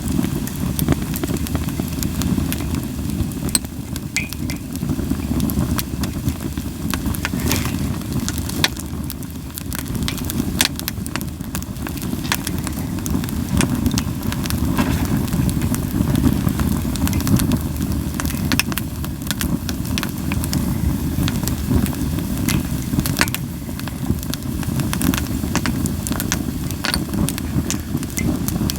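Japanese linden firewood burning in an open fire, crackling with frequent sharp pops over a steady low rumble.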